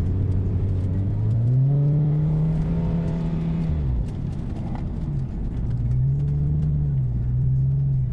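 Subaru Forester's flat-four boxer engine through a handmade full aftermarket exhaust, revved up twice: about a second in the note rises and holds for a couple of seconds before falling back to idle, then it climbs again and holds to the end.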